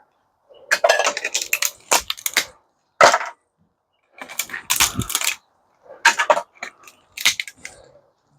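Clinking and clattering of small metal and plastic electronic parts being handled and dropped, in several short bursts of sharp clicks.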